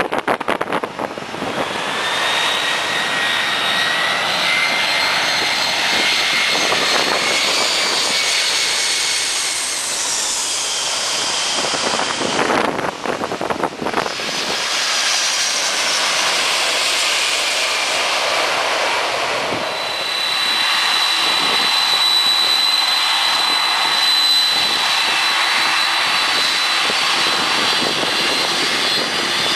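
Jet airliner engines at close range: a broad rushing noise under a high whine. The whine climbs slightly in pitch over the first several seconds, breaks off briefly about thirteen seconds in, then returns as a steady high whine.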